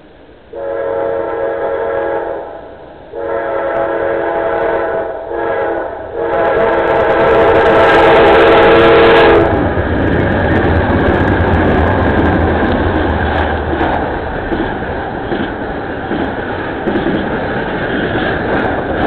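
Norfolk Southern diesel locomotive's air horn sounding the grade-crossing signal: two long blasts, a short one and a final long blast ending about nine seconds in. The locomotives' diesel engines then rumble past, followed by the steady clatter of the intermodal train's wheels over the rails.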